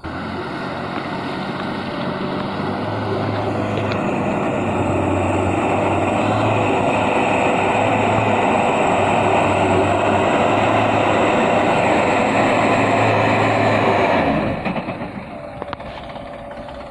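Truck engine revving hard under heavy load as it strains to climb a slippery, muddy slope, holding high revs for about fourteen seconds and then easing off sharply.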